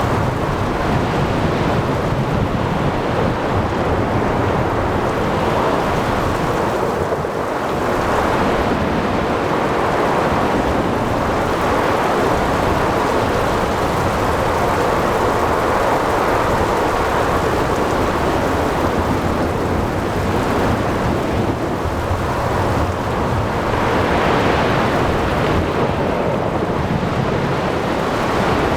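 Thunderstorm over the sea: steady rain and wind over waves, swelling and easing twice, with a low rumble of thunder beneath.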